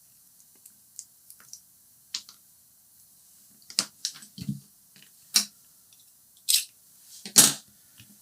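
Hand tools cutting and stripping the outer insulation of a power cable: scattered sharp snips, clicks and short scrapes, the loudest one near the end.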